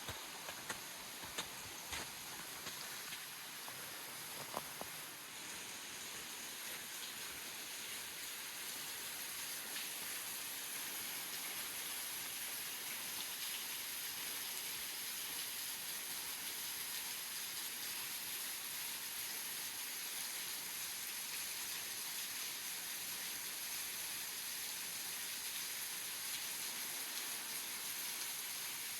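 Steady hiss of falling water, swelling a little over the first several seconds and then holding even, with a few sharp clicks in the first few seconds.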